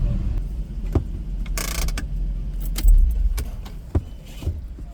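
A car's engine runs low and steady, then a heavy thump comes about three seconds in and the rumble drops away, as when the car is parked and shut off. Scattered sharp clicks and rattles, like keys and handles being worked, run through it, with a short hiss about one and a half seconds in.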